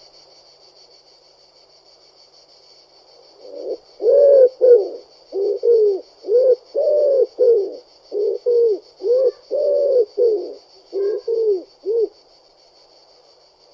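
Pigeon cooing: a run of short coos, each rising then falling in pitch, about two a second, starting a few seconds in and stopping near the end.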